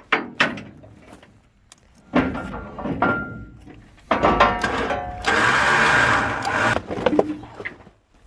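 Metal trailer loading ramps being pulled out and set in place: sharp clanks, then long metal-on-metal scraping with brief ringing.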